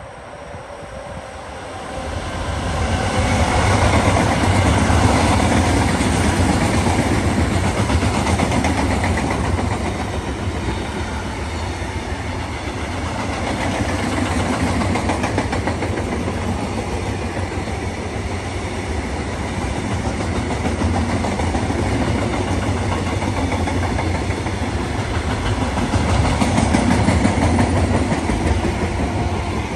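A long train passing close by, its wheels clattering on the rails. The noise swells about two seconds in and stays loud, rising again near the end.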